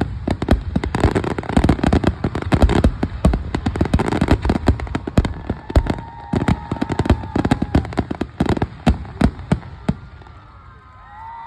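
Fireworks finale: a rapid barrage of bangs and crackling that thins out over the last few seconds and dies away.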